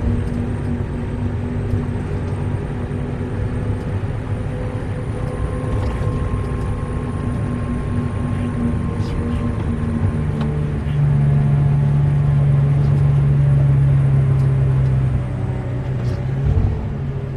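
Haul truck's diesel engine running steadily, with a faint high whine over it; from about 11 to 15 seconds in the engine note gets louder and deeper, then drops back.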